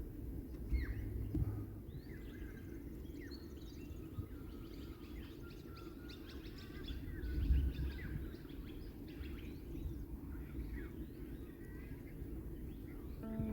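Several birds chirping and calling, with short whistled notes throughout, over a steady low outdoor rumble that swells briefly about halfway through.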